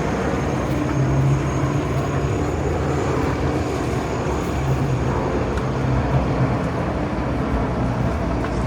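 Steady city street traffic noise: a dense rumble of passing vehicles with a low engine hum that swells and fades.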